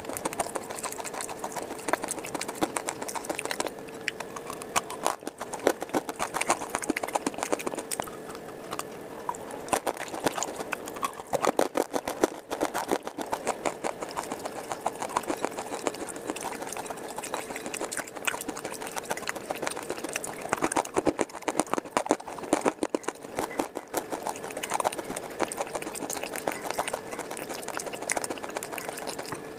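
Close-miked chewing of brittle baked clay and slate pieces: a dense, continuous run of sharp crunching clicks.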